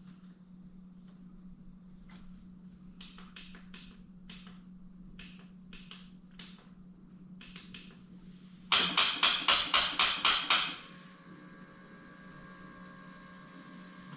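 Quad's starter solenoid clicking rapidly, about nine sharp clicks in two seconds, when the starter is tried with a weak battery. Scattered fainter clicks come before it, and a low steady hum sits underneath.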